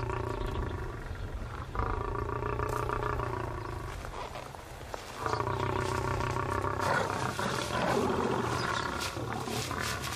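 Lions growling and snarling in several long, rough growls in a row, each a second or two long, with a short lull about four to five seconds in: aggressive warning growls at intruders who have come too close.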